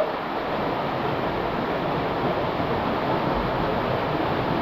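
Steady rush of water in a mountain canyon, an even hiss and roar with no breaks.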